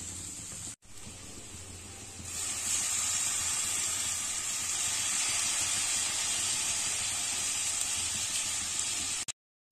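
Chicken sizzling as it fries in a hot steel kadai. About two seconds in the sizzle grows louder and brighter as lemon juice is squeezed over it, then holds steady until it cuts off suddenly near the end.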